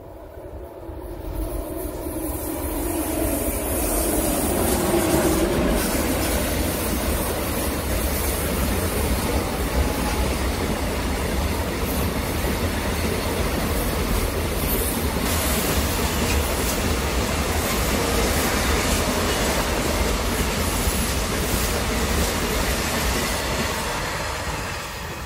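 Container freight train passing close by: the sound builds over the first few seconds as the train arrives, then holds as a long, steady run of wagon wheels on the rails, and it starts to fade near the end as the last wagons go by.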